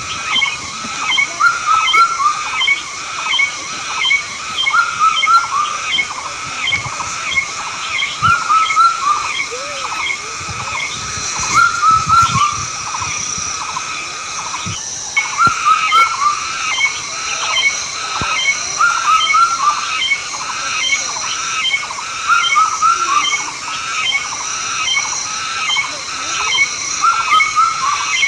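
A continuous chorus of short, repeated animal calls, several a second, over a steady high-pitched trill.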